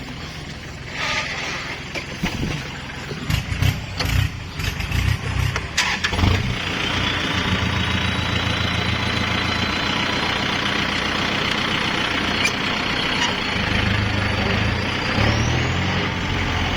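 Kubota tractor engine: uneven with several knocks for the first few seconds, then running steadily from about six seconds in, with a faint high whine that slowly rises in pitch.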